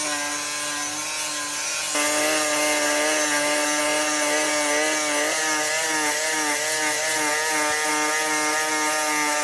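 Metalworking machine running with a steady high-pitched squeal, as of metal rubbing or being cut; about halfway through the squeal starts to pulse about twice a second.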